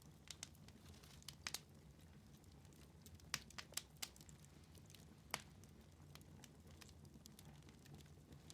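Wood fire in a fireplace crackling, with scattered sharp pops, a cluster about three and a half to four seconds in and another at about five seconds, over a low steady rumble.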